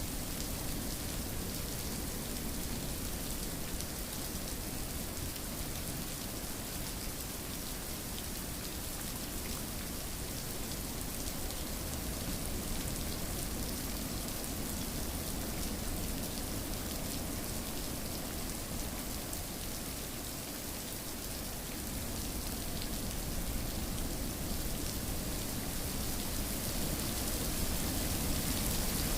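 Steady rain falling: an even, continuous hiss with the patter of individual drops, growing slightly louder near the end.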